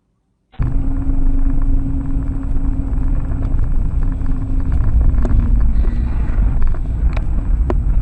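A vehicle engine's loud, low rumble with a steady hum, starting suddenly about half a second in, with a few sharp clicks over it.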